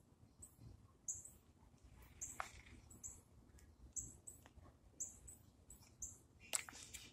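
Faint high-pitched bird chirps, short single notes repeating irregularly about once a second, over a quiet background. There are two sharp clicks, one about two and a half seconds in and a louder one near the end.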